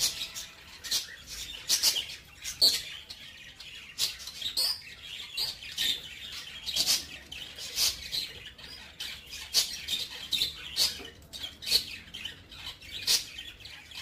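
Small cage birds chirping: short, high chirps repeated irregularly, about two a second.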